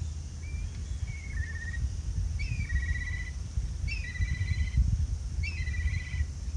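A songbird singing: some short notes at first, then three matching phrases roughly a second and a half apart, each a sharp downward note followed by a quick trill. Strong wind rumbles on the microphone underneath throughout.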